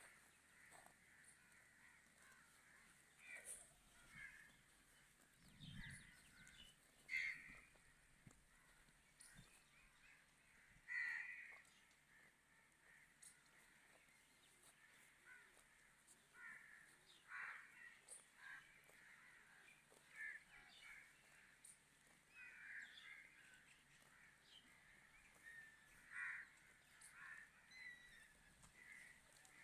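Birds calling in short calls at irregular intervals, a few louder than the rest.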